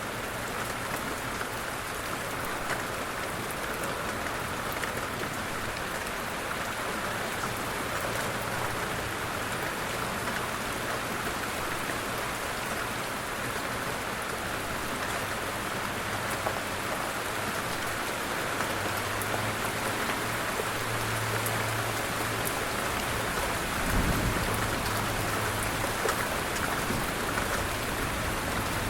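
Steady light rain falling, an even hiss with scattered ticks of single drops. About four-fifths of the way through comes a brief low rumble.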